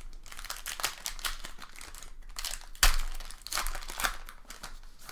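Foil trading-card pack wrappers crinkling and tearing as packs are ripped open and handled: a run of crackles with one sharp, loudest rip nearly three seconds in.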